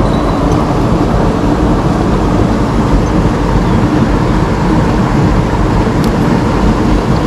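Mountain stream water rushing over rocks, a steady loud rush with no change in level. A faint click sounds about six seconds in.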